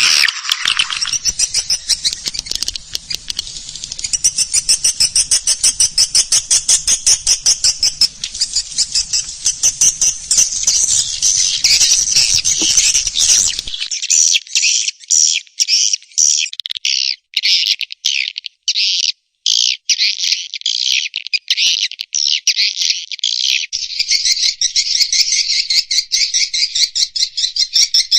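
Recorded edible-nest swiftlet calls: a dense, rapid twittering of repeated chirps, a swiftlet-house lure sound played to call swiftlets in and get them to roost. About halfway through, a low hum underneath drops out and the chirping breaks into short runs with brief gaps.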